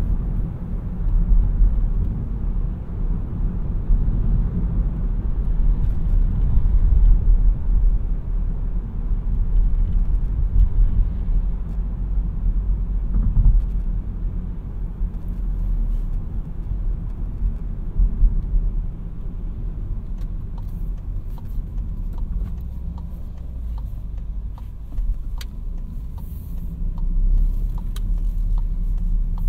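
2017 Seat Arona 1.0 TSI three-cylinder turbo petrol car being driven: steady engine and road rumble, loudest in the low end and rising and falling slightly with the drive. Faint regular ticking joins in during the last third.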